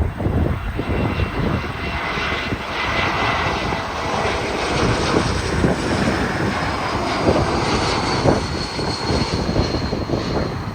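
Airbus A220-300 jet with Pratt & Whitney PW1500G geared turbofan engines passing, a deep rumble under a high engine whine that slowly falls in pitch.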